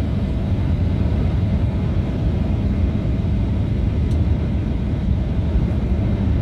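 Steady low rumble of a jet airliner's cabin noise, the engines and airframe running evenly with the plane on the ground after landing.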